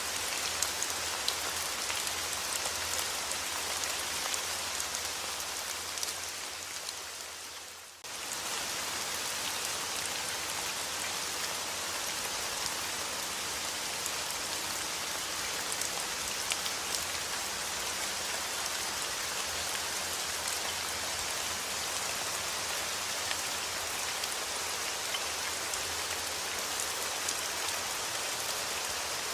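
Steady rain falling on a surface, a dense hiss full of fine drop patter. The rain fades down over a few seconds, then cuts straight back in at full strength about eight seconds in.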